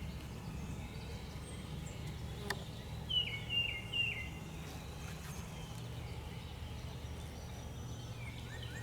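A songbird calls a quick run of three falling chirps about three seconds in, and another run of rapid chirps starts near the end. Under the calls runs a steady low hum, with a single sharp click midway.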